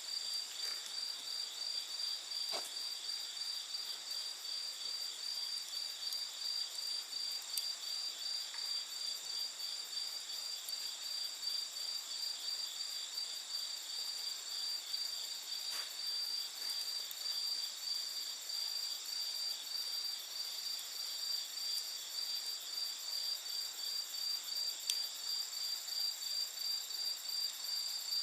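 Night insects chirping in a fast, even, high-pitched pulse that never lets up, with a few faint crackles from a wood campfire.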